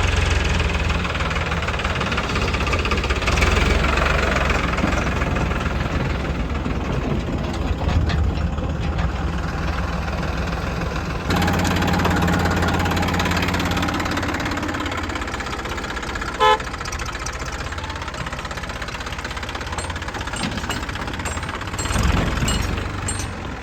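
Heavy diesel engine of loading machinery running steadily. The engine sound changes abruptly about halfway through, and a short horn beep sounds about two-thirds of the way in.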